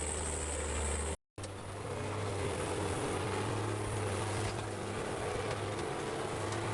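Heavy forestry machine's diesel engine running steadily, with a steady low hum. It cuts out abruptly for a split second about a second in, then carries on at a slightly different pitch.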